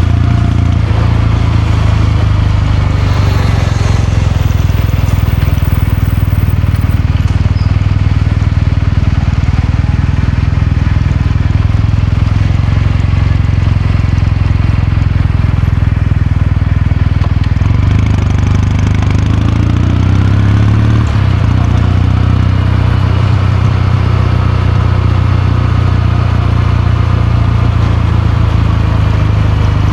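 Kawasaki Meguro K3's air-cooled parallel-twin engine and exhaust running at fairly steady revs, with the revs rising for a couple of seconds about two-thirds of the way through.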